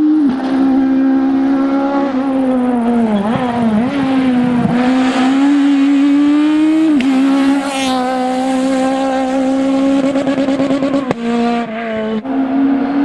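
Citroën Saxo Kit Car rally car's four-cylinder engine running at high revs, mostly held steady. The revs dip and pick back up several times a few seconds in as the driver lifts and shifts. The sound jumps abruptly twice near the end.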